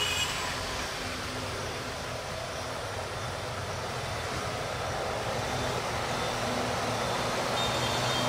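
Diesel oil tanker freight train running in the distance: a steady rumble with a faint engine hum, growing a little louder near the end.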